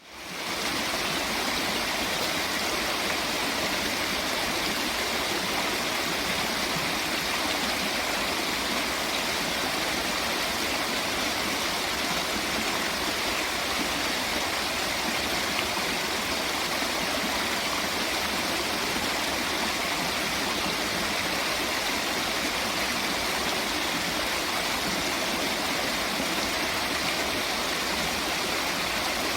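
Steady rushing of flowing water, an even unbroken wash, fading in at the very start.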